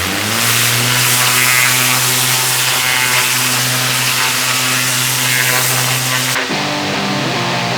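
Pressure washer with a turbo lance blasting block paving: a loud, steady hiss of spray over a steady low machine hum, cutting off suddenly about six seconds in.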